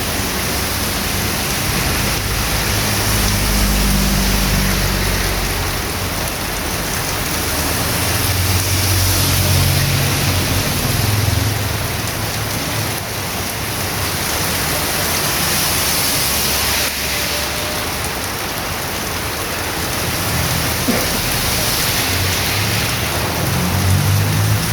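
Heavy rain pouring steadily, drumming on the street and nearby surfaces. A low rumble swells and fades three times: near the start, around the middle and near the end.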